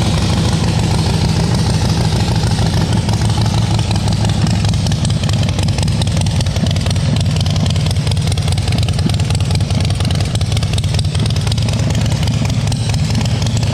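Freshly rebuilt Harley-Davidson Twin Cam V-twin with performance exhaust, loud and running steadily just after it has started. This is its first run once a rocker arm fouling the rocker cover and holding the rear intake valve open was cleared.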